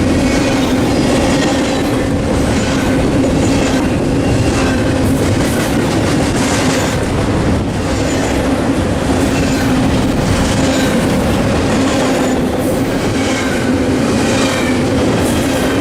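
Double-stack container freight train rolling past close by: a steady, loud rumble of steel wheels on rail with a constant low hum. Irregular clacks come from wheels crossing rail joints, and faint high wheel squeal comes and goes.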